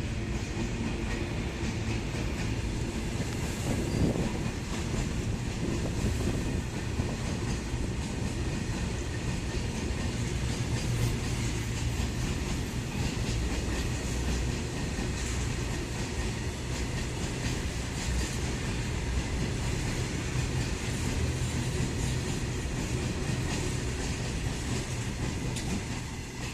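Goods train passing through a station without stopping: a steady rumble of rolling wagons, with wheels clicking over the rail joints.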